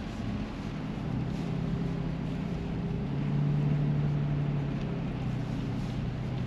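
Car engine and road noise heard inside the cabin while driving, a steady low hum that grows a little louder for a second or so near the middle.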